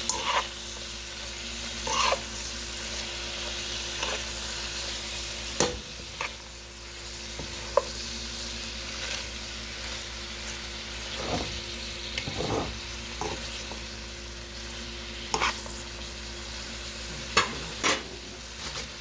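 Shredded cabbage with bell peppers and onions sizzling in butter in a nonstick pot as it is stirred, with the utensil knocking and scraping against the pan now and then. A faint steady hum runs underneath.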